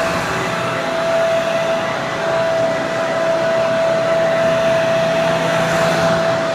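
Hair dryer running steadily: an even rush of blown air with a constant whine from the motor.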